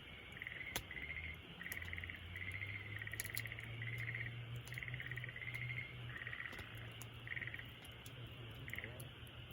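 Campfire crackling with scattered sharp pops, over a run of short trilled chirps from a frog or insect, repeating about twice a second and stopping near the end. A low steady hum runs underneath.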